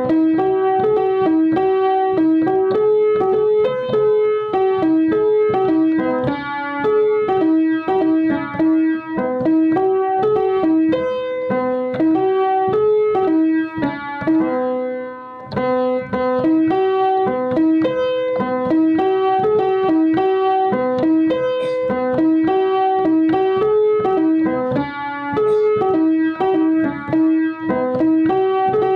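Keyboard music: a piano-like electric keyboard playing a repeating melody of short, evenly paced notes, with a brief pause about halfway through.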